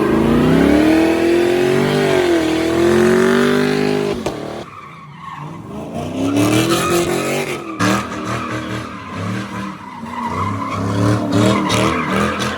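Vehicle engine revving with tire squeal, the pitch climbing and sliding up and down; the sound cuts out abruptly about four and a half seconds in, then revving picks up again.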